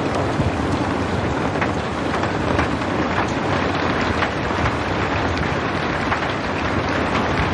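Steady rain falling, a dense even hiss with scattered drop ticks and no thunder.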